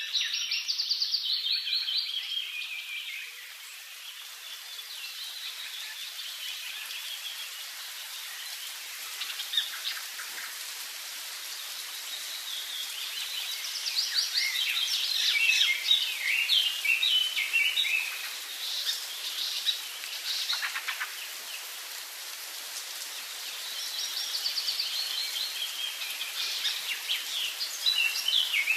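Birdsong: rapid, high chirping phrases coming in three spells, over a steady background hiss.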